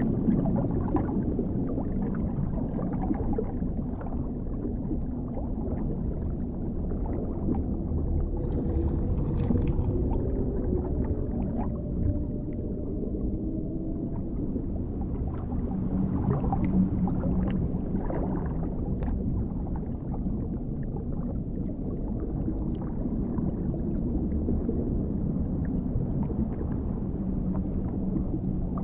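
Underwater ambience: a deep, muffled rumble with scattered bubbling, and a long wavering tone that glides up and down in pitch about a third of the way in.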